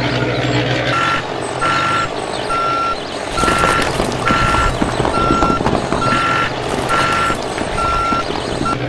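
Vehicle reversing alarm beeping, one steady high tone repeating about every 0.7 s, starting about a second in, over a continuous noisy rumble.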